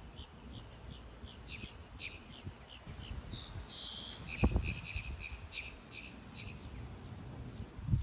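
Small birds chirping over and over in short high notes, with a brief low thump about four and a half seconds in.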